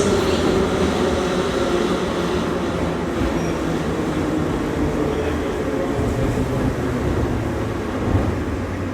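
Steady running noise of an 81-717.5M 'Nomernoy' metro car heard from inside: wheels on rail and a low hum under a rush of noise, easing slightly near the end.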